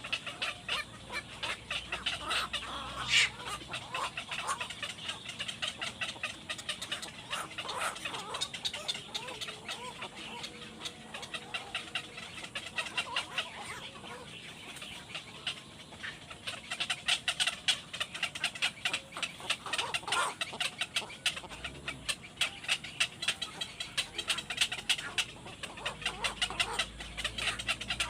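Young birds calling continuously: a dense stream of short, rapid cheeps and chirps, busiest around 3 seconds in and again in the second half.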